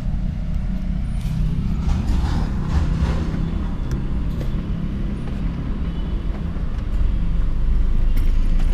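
Car engine idling, a steady low rumble heard from inside the cabin, getting a little louder about seven seconds in.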